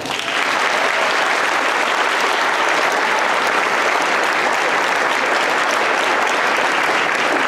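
Audience clapping: dense, steady applause that breaks out at once and keeps up at full strength.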